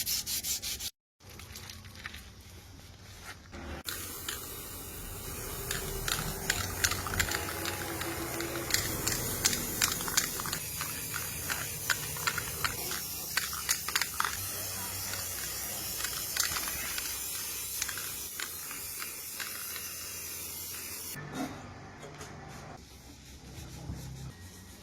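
Steady spraying hiss, as from an aerosol spray can, starting about four seconds in and stopping suddenly about twenty-one seconds in, with scattered sharp clicks through it.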